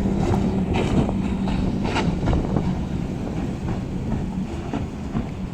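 Racing powerboat engine droning steadily as the boat passes, dying away about two seconds in, with wind buffeting the microphone.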